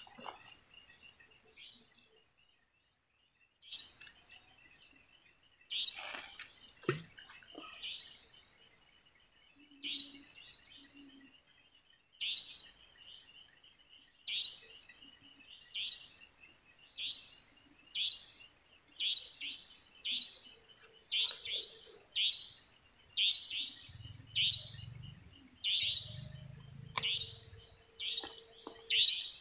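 A bird calling over and over, short sharp chirps about once a second that come closer together in the second half, over a faint steady high-pitched whine. Near the end there are a couple of low muffled rumbles.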